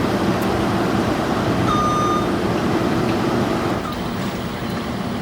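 Heavy lifting machinery's engine running steadily, easing down a little near the end, with one short beep about two seconds in.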